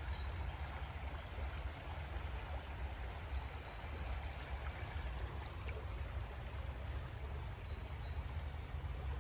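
Stream water flowing steadily over rocks, with a steady low rumble underneath.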